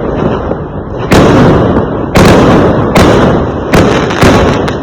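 Fireworks going off: five sharp, loud bangs in quick succession, roughly one a second, each trailing off into a rumble before the next.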